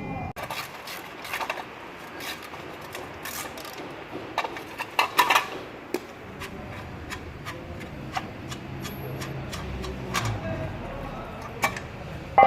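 Scattered, irregular sharp clicks and knocks, louder around five seconds in, over a faint low background rumble.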